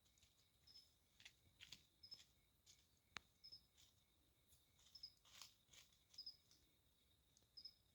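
Faint night insects: a short high chirp repeating about every one and a half seconds over a steady high drone. A few faint clicks break in, the sharpest about three seconds in.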